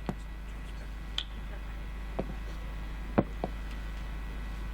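A pause in speech: steady low hum and background noise with a handful of short, faint clicks scattered through it.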